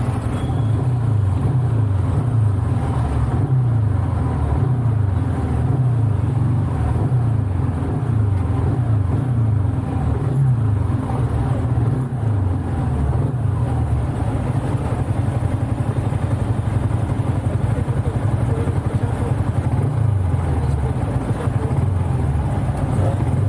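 Motorcycle engine running while riding, its pitch rising and falling over and over with throttle and gear changes. It is recorded on an action camera with firmware wind-noise reduction, so little wind roar is left.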